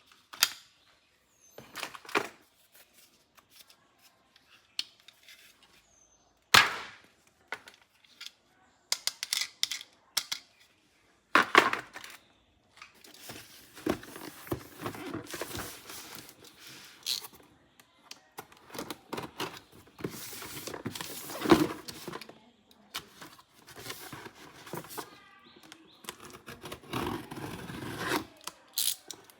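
Toy packaging and hard plastic toy parts being handled: scattered sharp clicks and knocks at first, then near-continuous crinkling and rustling mixed with clicks from about halfway through.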